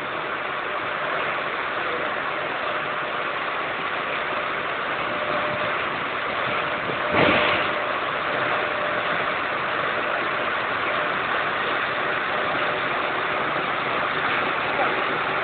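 Heavy rain falling steadily, a dense even hiss, with a brief louder swell about seven seconds in.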